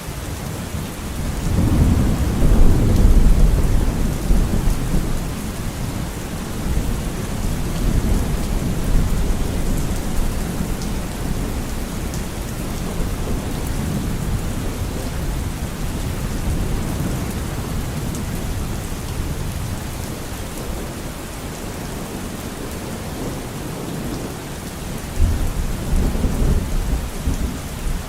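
Steady heavy rain with rolling thunder: a deep rumble swells about two seconds in and fades, a weaker one comes around eight seconds in, and another rises near the end.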